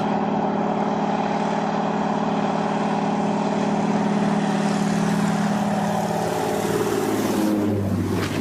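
An engine running steadily with a hum of several tones, its pitch sagging and falling about seven seconds in.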